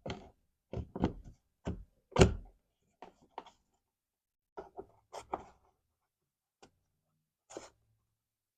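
Car door trim pieces being handled and pressed into place: a string of short knocks and clicks, the loudest about two seconds in.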